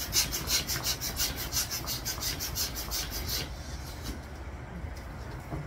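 A rubber balloon rubbed quickly back and forth against cloth trousers, about three strokes a second. The rubbing stops about three and a half seconds in.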